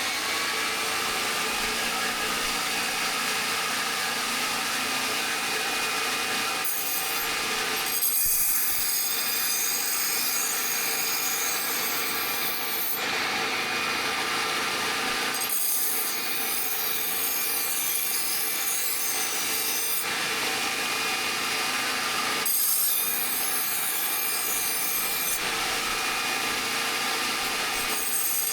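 A power tool spins up just before and then runs steadily, working the steel of an old saw blade. Its sound shifts every few seconds as each pass changes.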